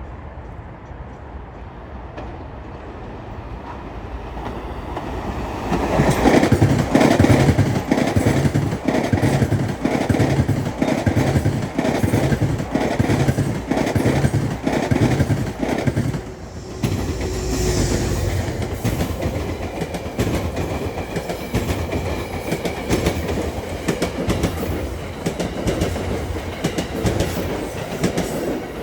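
Metro-North commuter train passing through the station, growing louder over the first few seconds, then its wheels clacking over the rail joints about once a second. Near the middle the clacking gives way, after a brief drop, to a steady rumble of wheels on rail with a faint high whine.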